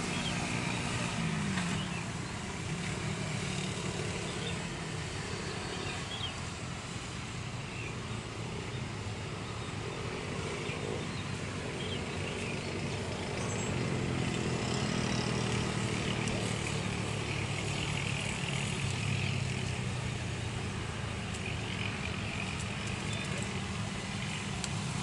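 Steady engine noise, with a low hum whose pitch shifts now and then.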